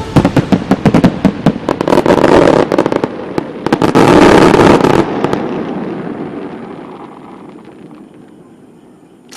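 Fireworks going off in a rapid barrage of bangs and crackling, densest around two and four seconds in. They stop suddenly about five seconds in, leaving a long fading rumble of echo.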